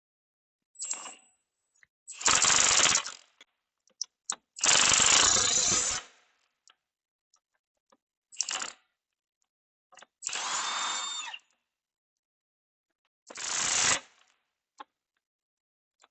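Handheld power tool driving fasteners in about four short bursts of roughly a second each, with light metal clicks in between; one burst carries a steady motor whine.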